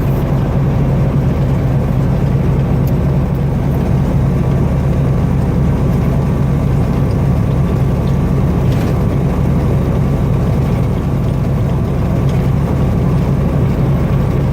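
A big diesel truck engine idling steadily, a low, even drone with no change in speed.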